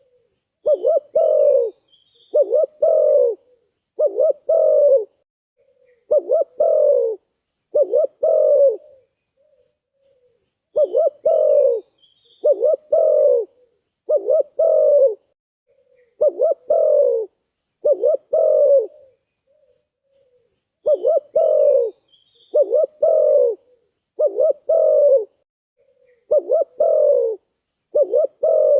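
Spotted dove cooing: a low, repeated coo phrase about every two seconds, in runs of four or five with short pauses between runs. Faint high chirps of a small bird come in now and then.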